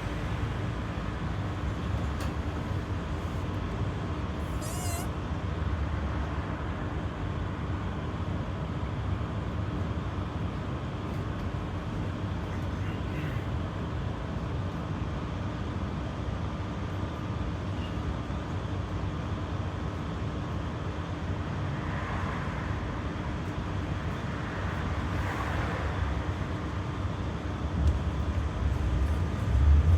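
Berlin GT-type low-floor tram running along the line: a steady rumble of wheels on rail with a constant hum under it, and the rumble grows louder near the end.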